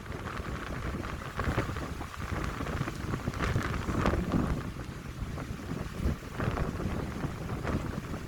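Wind blowing through pine trees in uneven gusts, with a low rumble of wind buffeting the microphone.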